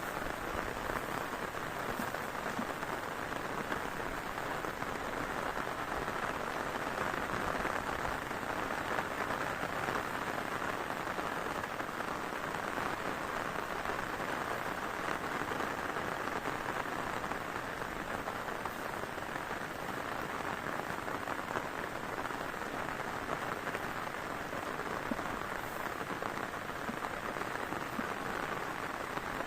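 Heavy rain falling steadily, a dense even patter of drops with many small ticks.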